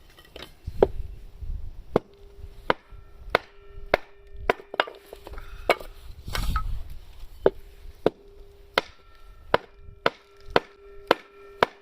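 Firewood being chopped or split with a steel blade: a steady series of more than a dozen sharp strikes into wood, about one every half to two-thirds of a second, the blade ringing briefly after many of them.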